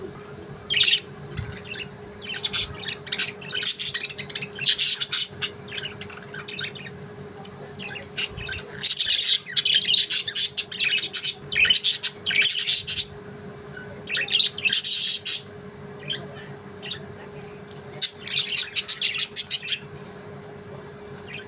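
Budgerigars chirping and squawking in repeated bursts of high-pitched calls with short pauses between, over a faint steady hum.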